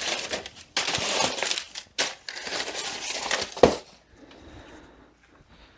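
Rustling and clinking as a spare transmission clutch drum is fetched and handled, ending in one loud thud as it is set down, a little over three and a half seconds in; fainter handling sounds follow.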